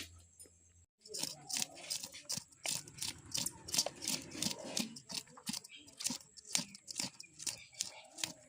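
Taro (kochu) stalks being chopped with a blade: a steady series of crisp cuts, about three a second, starting about a second in.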